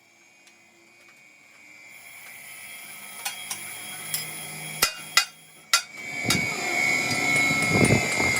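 Metal workshop noise: three sharp metallic knocks about five seconds in, then a steady high whine and clatter building up near the end.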